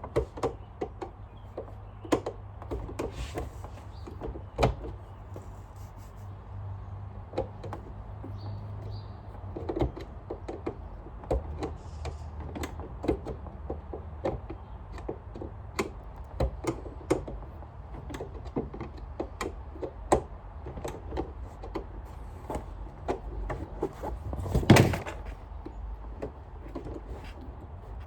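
Irregular plastic and metal clicks, taps and knocks from hands working on a Sanitaire upright vacuum as its parts and bag are refitted, over a steady low rumble. One louder, longer thud comes near the end.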